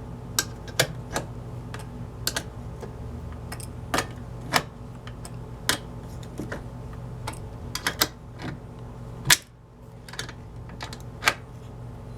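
Irregular sharp clicks of a small wrench tightening tiny nuts while fitting a dishwasher water inlet valve, with a steady low hum underneath.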